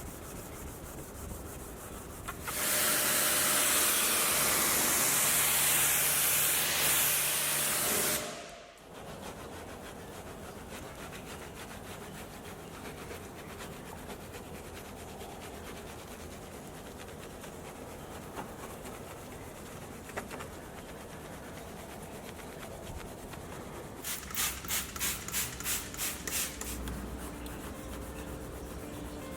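Steady brushing or rubbing on a car's surfaces during detailing. A loud hiss lasts about six seconds, starting a couple of seconds in, and near the end comes a quick run of about eight short hissing squirts.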